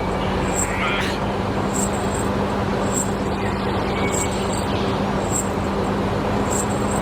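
A motor running steadily with a constant low hum, and a faint high click repeating about every second and a bit.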